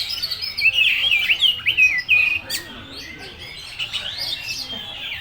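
Oriental magpie-robin singing a fast, varied song of whistles and chirps, packed with learned imitations of other birds' calls. The song is busiest in the first two seconds or so, eases off, then picks up again near the end.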